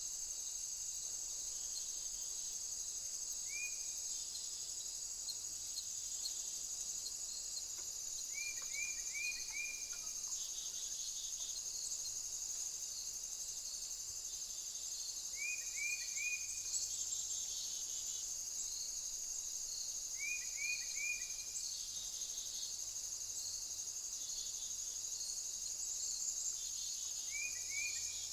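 Steady, high-pitched chorus of crickets or other singing insects. Over it, a small bird gives a short run of three or four quick notes about every five to seven seconds.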